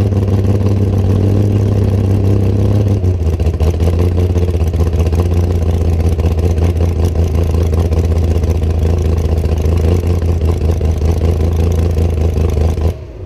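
Hot rod coupe's engine running loud and steady under way. Its note drops a little about three seconds in, then holds until the sound cuts off abruptly near the end.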